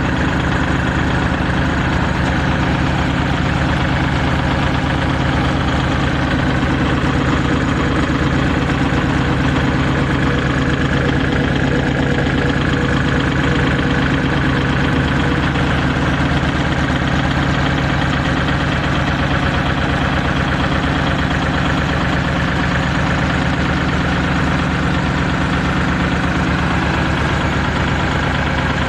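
Diesel engine of a rice combine harvester running steadily at a constant speed.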